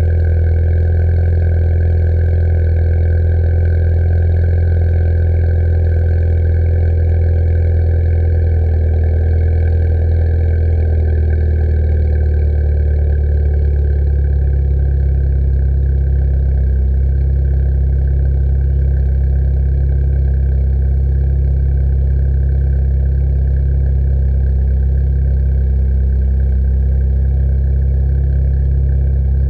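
Ford Fiesta ST's turbocharged engine running steadily at idle through an MBRP 3-inch aftermarket exhaust, a deep, even drone. Its pitch eases down a little about halfway through, then holds steady.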